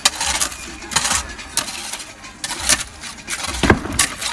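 Irregular sharp metallic clinks and knocks, roughly two a second, with a heavier knock near the end: metal tools or iron striking on a building site.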